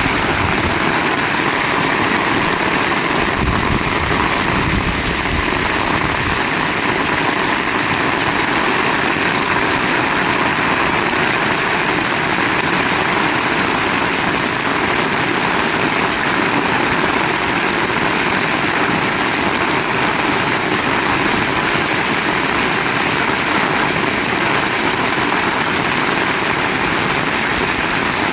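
Heavy rain falling steadily, a loud, even hiss, with a low rumble in the first few seconds.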